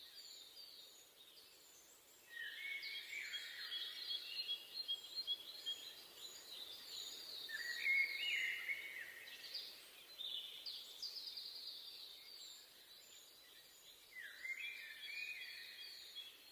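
Songbirds singing in a forest: quick phrases of rapid falling notes come in three bursts, about two, seven and fourteen seconds in, with a thin high call repeating between them over faint steady background hiss.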